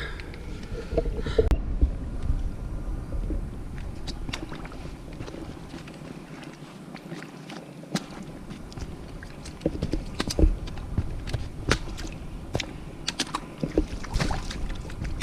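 A hiker's footsteps and knocks on a wet, muddy, rocky trail, with low rumbling wind buffeting the microphone. The footfalls come more often and sharper in the second half.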